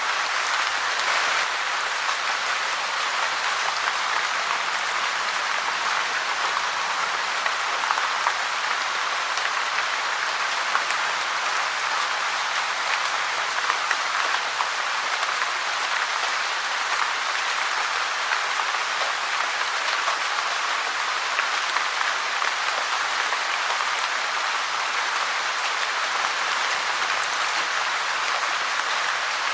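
Steady rain falling, a dense even patter of drops with many small ticks and little low rumble.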